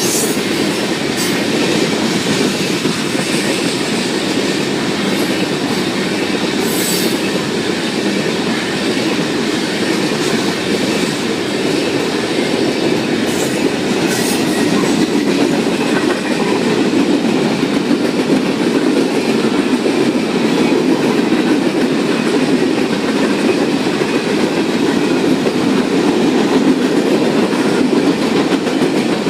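Railroad cars rolling past steadily, wheels clattering over the rail joints, with a few sharp metallic clicks.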